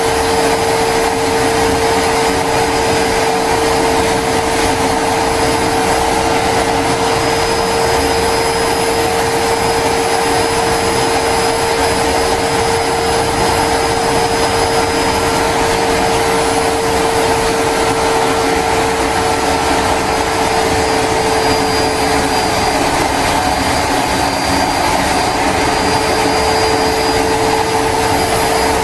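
Homemade jet engine built from a turbocharger, running steadily: a loud, even rushing noise with a steady hum and a faint high whine. The hum fades briefly about three quarters of the way through, then returns.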